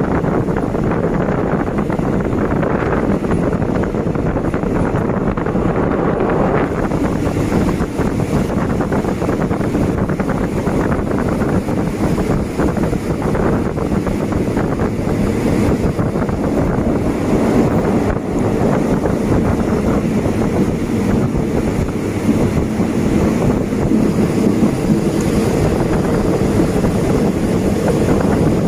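Passenger train running steadily at speed, heard through an open carriage window: a constant rumble of wheels on the rails mixed with wind rushing over the microphone.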